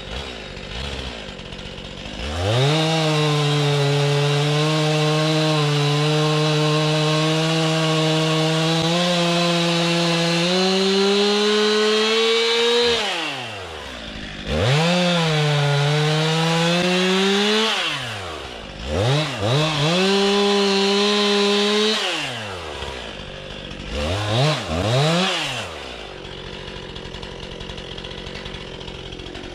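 A two-stroke chainsaw revved up to full throttle and held there, most likely cutting firewood: one long run of about ten seconds, then two shorter runs and two quick blips. It drops back to idle between runs and near the end.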